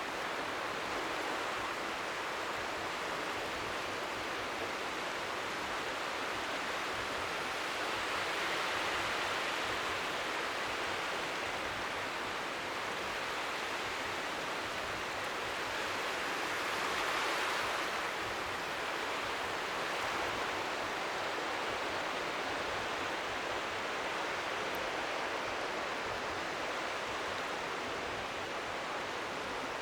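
Steady hiss of strong wind by the sea, with faint waves lapping the shore underneath, swelling gently twice.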